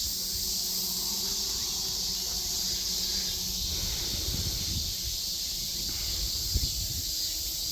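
A chorus of cicadas making a steady, dense, high-pitched buzz, with low wind rumble on the microphone.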